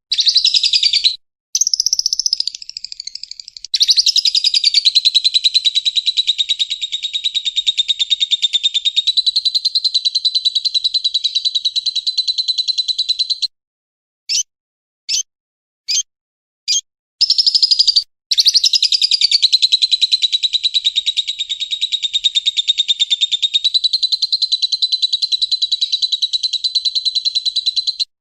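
Lovebird ngekek: long runs of rapid, high trilling chatter lasting about ten seconds each, with a few short, sharp separate chirps between the runs.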